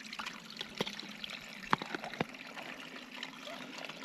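Water trickling in a small, shallow creek, with three or four sharp clicks about one and two seconds in.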